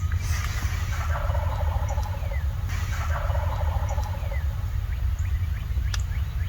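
Wild turkey gobblers gobbling twice, each rattling gobble lasting about a second and a half, over a steady low rumble.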